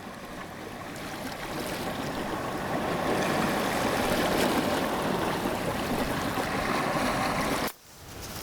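Rushing water, a steady hiss that swells over the first few seconds and cuts off suddenly near the end.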